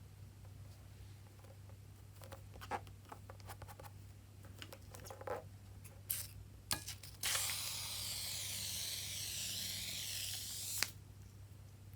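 Scattered small clicks and crinkles, then an aerosol can of shaving foam spraying in one steady hiss for about three and a half seconds. The hiss ends with a sharp click as the nozzle is let go.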